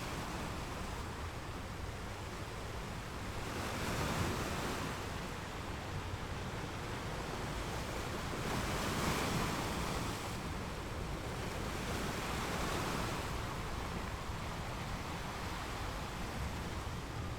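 Ocean waves breaking and washing on a beach: a steady rushing surf that swells with a wave about 4 s in, a bigger one around 9 s, and another around 12 to 13 s.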